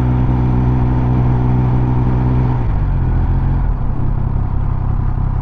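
Triumph Speed Triple 1200 RS inline-three engine running at steady revs under way. About two and a half seconds in, the engine note drops as the bike slows.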